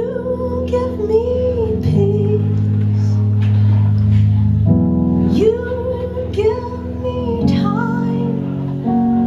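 A woman singing a slow song with sustained keyboard chords accompanying her.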